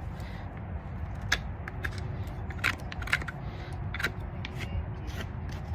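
A farrier's tools paring and cutting hoof horn from the sole of a horse's hoof: a run of short, sharp cutting strokes about once a second, over a steady low background rumble.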